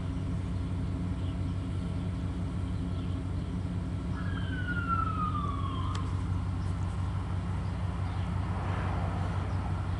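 1995 Chevrolet C-2500's 5.7-litre (350) throttle-body-injected small-block V8 idling steadily. About four seconds in, a whistle-like tone slides down in pitch for about two seconds and ends in a short click.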